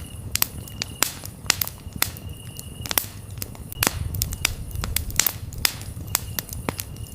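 Campfire crackling and popping, with sharp wood snaps several times a second over a low rumble of flame. Brief high chirps of crickets come and go in the background.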